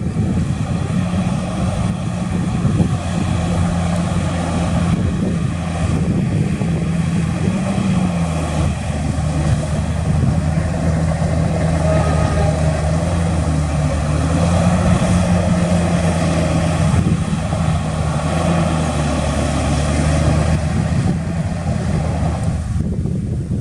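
Heavy diesel engine of earthmoving machinery running steadily, its pitch dipping and rising slightly as the load changes.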